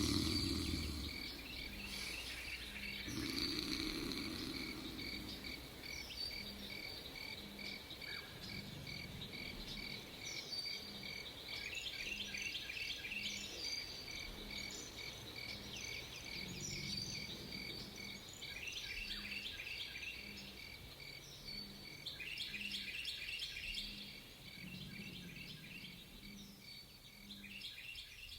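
Night-time nature sound effects: crickets chirping in a steady pulsing rhythm, joined by birds twittering and calling from about ten seconds in. A low snore sounds a few seconds in and again near the end.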